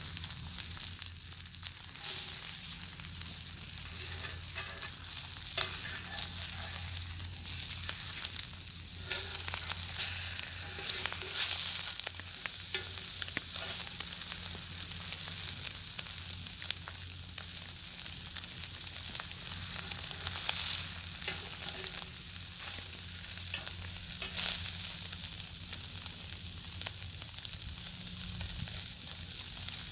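Bacon sizzling over a fire: a steady frying hiss with frequent small pops and crackles.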